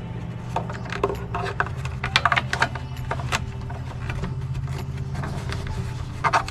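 Small clicks, taps and light rattles from handling a fuel hose and fuel filter, over a steady low hum.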